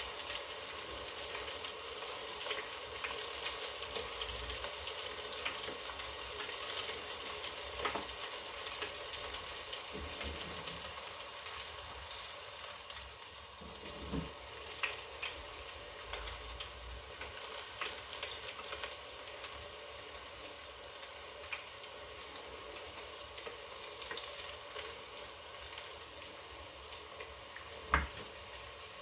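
Round goby pieces frying in a pan: a steady sizzle with scattered small pops of spattering fat.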